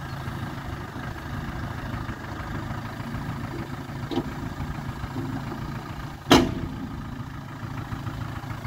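Land Rover engine running steadily, with a small click about four seconds in and a loud, sharp knock a little after six seconds.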